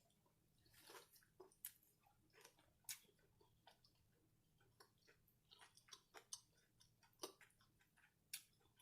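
Faint close-up chewing of fried, cornmeal-and-panko-breaded shrimp: short, irregular clicks and small crunches from the mouth, a few a second.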